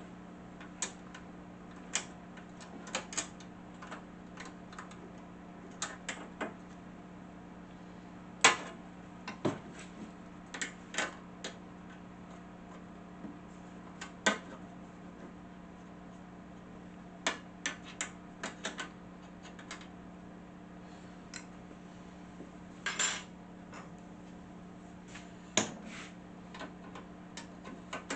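Irregular metallic clicks and clinks of a wrench and loose bolts and nuts as a bracket is unbolted from an old cast-iron table saw, over a steady low hum.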